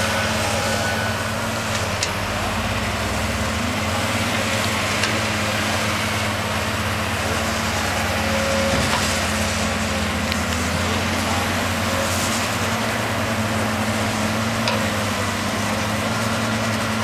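Diesel engine of a Caterpillar digger running steadily, a low drone with a few short sharp knocks scattered through it.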